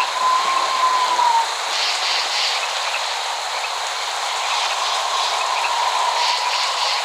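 Steady rain falling, with a thin held tone over it that dips and fades about a second and a half in and returns about five seconds in. No thunder.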